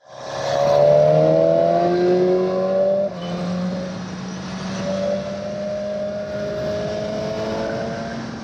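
2017 BMW S1000XR's inline-four engine pulling under acceleration, its pitch climbing. About three seconds in it drops suddenly with an upshift, then climbs more gently in the next gear.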